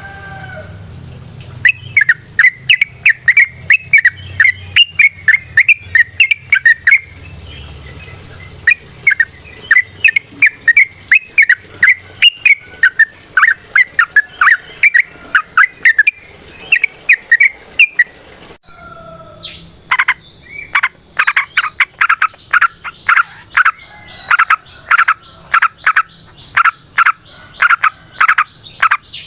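Yellow-vented bulbul (trucukan) singing long, rapid runs of loud chattering notes, the long 'ropel' song. There are three runs separated by short pauses, and the last run, from about twenty seconds in, is the fastest.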